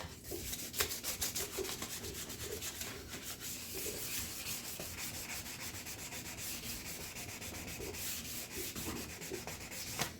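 Wet 800-grit sandpaper rubbed by hand over a plastic Acura Integra headlight lens: a steady hissing scrub made of quick, rapidly repeated strokes, as the lens is wet sanded.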